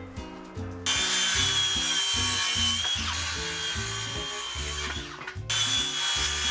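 Electric saw cutting 2x3 lumber. The motor comes up about a second in and runs with a steady high whine through the cut, dies away near five seconds, then starts again for a second cut.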